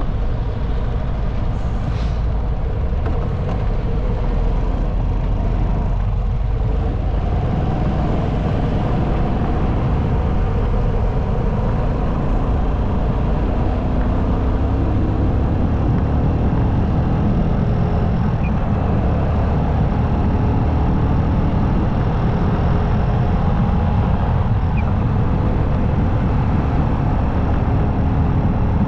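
Motorcycle riding on the highway: a steady rush of wind and road noise, heaviest in the low end, with a faint engine drone running through it.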